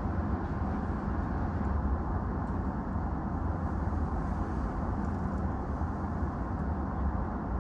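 Steady rumble and hum inside a stationary JR East E233 series electric commuter train, from its onboard equipment running while it stands after an emergency stop.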